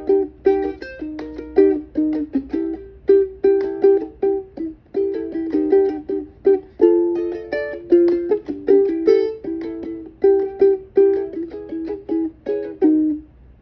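A plucked string instrument playing a relaxed, repeating pattern of picked notes and chords in a steady rhythm, each note ringing briefly and fading.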